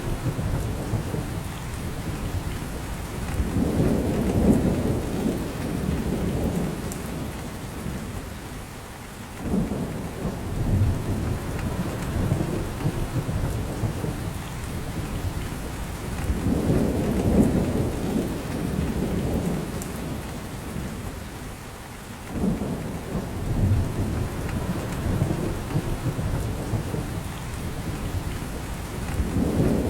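Steady rain falling on a spruce forest, with dripping from the branches, under a low rumble that swells and fades in a cycle repeating about every 13 seconds.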